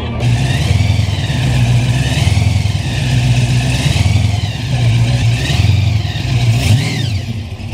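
A car engine running loudly with a deep, lumpy exhaust note that swells and eases several times, as if lightly revved.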